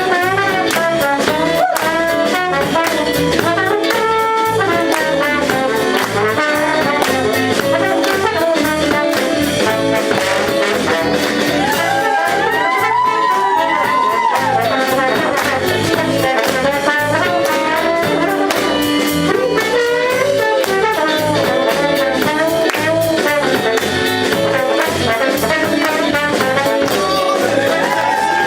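Live band playing an instrumental passage of a song, with a brass horn carrying a melody that bends in pitch over a steady drum beat.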